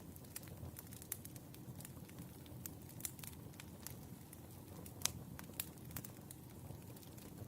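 Firewood burning, with irregular crackles and sharp pops over a low rumble of the flames; one pop about five seconds in is the loudest.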